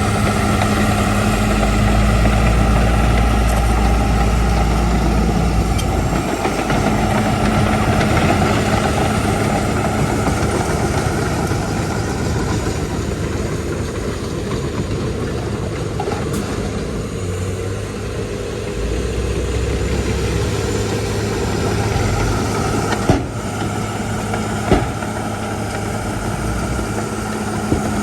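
Heavy earthmoving machine's diesel engine running steadily, its deep rumble swelling and easing at times. Two sharp knocks come near the end.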